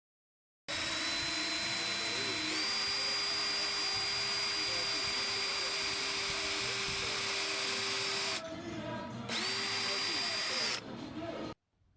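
Power drill boring holes into the end of a wooden log for eye hooks: a steady motor whine that steps up in pitch a couple of seconds in. It eases off briefly, runs a second time, and then stops.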